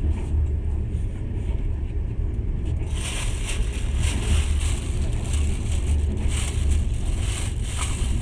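Passenger train carriage running along the line, heard from inside: a steady low rumble, joined about three seconds in by a hissing rattle higher up.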